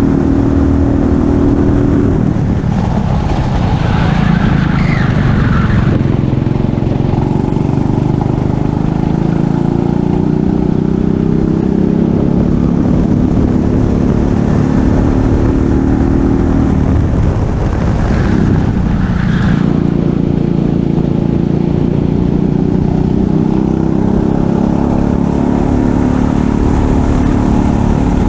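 Racing kart engine running at high revs, its pitch climbing steadily, then dropping sharply twice as the throttle is lifted for corners. Each drop is followed by a brief tyre squeal before the engine picks up and climbs again.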